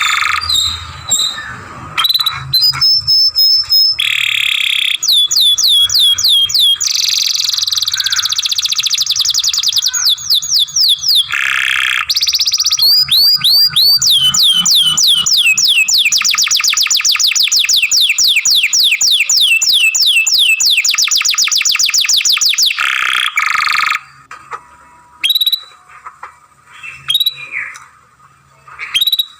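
Young canary singing a long song: fast trills of repeated whistled notes that sweep downward, with rougher buzzy passages between them. About three-quarters of the way through the song stops and only a few scattered short chirps follow.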